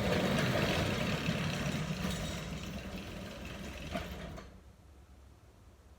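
Garage door being lifted by hand, a steady rolling rumble as it travels up its tracks, ending with a knock about four seconds in as the door comes to a stop.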